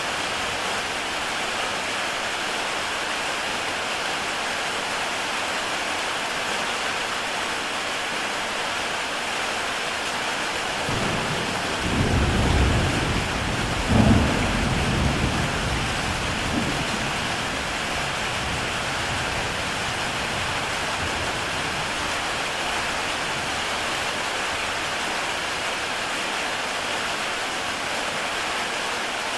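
Heavy rain falling steadily on a tile roof. About eleven seconds in, a low rumble of thunder swells, peaks sharply near the middle, and fades away over the next few seconds.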